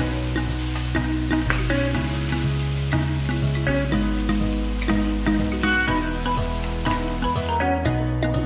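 Chicken pieces sizzling as they fry in a metal kadai, stirred with a wooden spatula that scrapes and knocks against the pan. Soft background music with held notes plays underneath. The sizzling cuts off sharply near the end.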